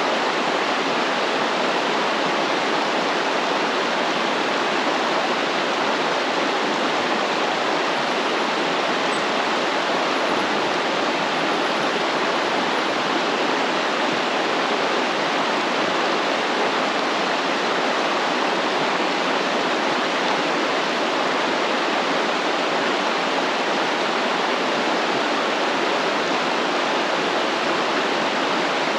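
Stream water flowing steadily: an even, unbroken rush of water.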